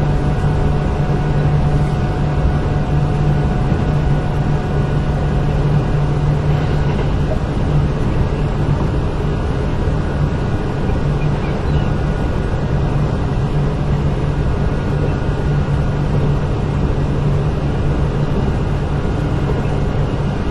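Kintetsu 8000 series electric train car running at a steady speed: an even rumble of wheels and motors with a constant low hum and faint steady whines.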